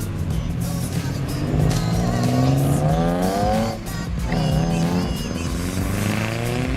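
Car engine accelerating hard, climbing in pitch, with a short break and drop in pitch about four seconds in as it shifts up a gear, then climbing again.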